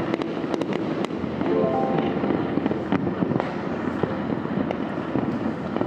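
Many fireworks and firecrackers going off across a city at once: a dense, continuous crackling and popping with sharper bangs standing out about a second in.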